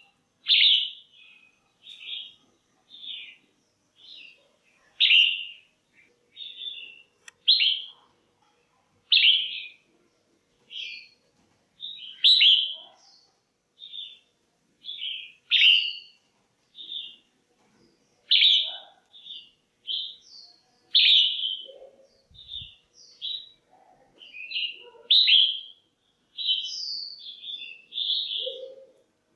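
Female red-whiskered bulbul calling: short chirping notes about one a second, some much louder than others.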